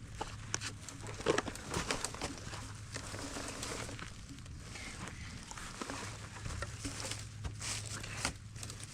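Rustling and crackling of dry forest-floor leaves and twigs under shifting feet, with scattered light clicks and knocks as log pieces are handled.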